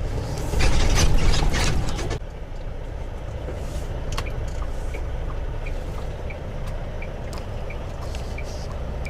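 Semi truck's engine running steadily with a low drone, heard inside the cab. A loud hissing rush fills the first two seconds. From about four seconds in, a light click repeats about twice a second.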